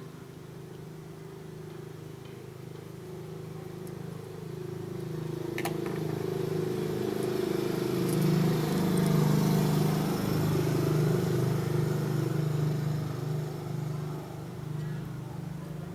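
A motor vehicle's engine hum that grows louder to a peak about nine seconds in and then fades, as it goes by, with a couple of light clicks partway through.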